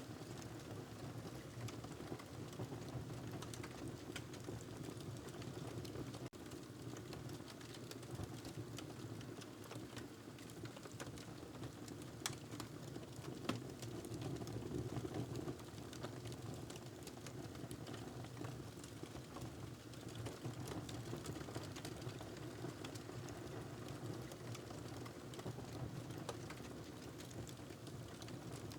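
Wood fire crackling in a fireplace: a steady low rumble of burning with frequent small pops and snaps, and two sharper pops near the middle.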